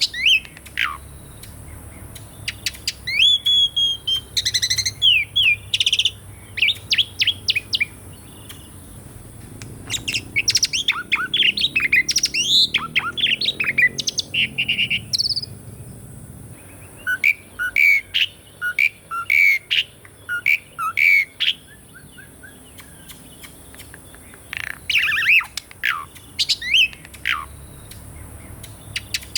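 Asian pied starling (jalak suren) singing: bouts of varied whistles, sliding chirps and quick runs of short repeated notes, with short pauses between bouts.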